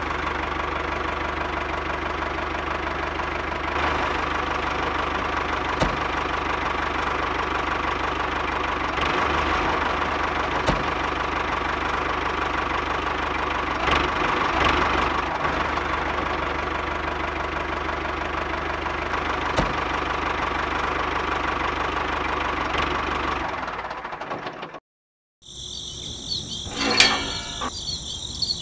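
Motor of a miniature homemade model tractor running steadily as it drives along pulling a loaded trailer. It cuts off suddenly about 24 seconds in.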